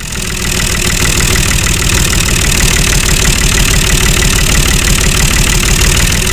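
Engine idling steadily with a fast, even firing beat; it cuts in and out abruptly.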